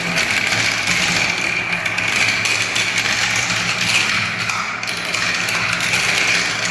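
Marbles rolling down a spiral marble-run ramp, a steady continuous rolling rattle.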